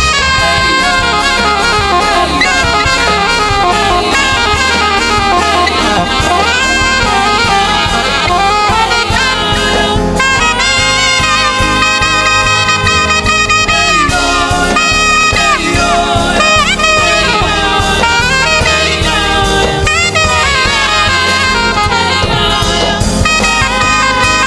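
Gospel band playing an instrumental passage, with a saxophone carrying the melody in bending, sliding phrases over the rest of the band.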